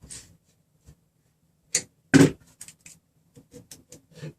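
A series of short clicks and taps of small hand tools and hardware, the loudest about two seconds in and a run of lighter ticks near the end, as a nut on threaded rod is adjusted and the distance checked with calipers.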